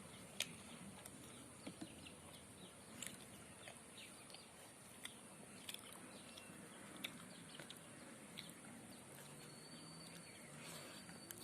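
Faint rural outdoor ambience: scattered short bird chirps and small clicks over a steady high hiss, with a faint low hum near the end.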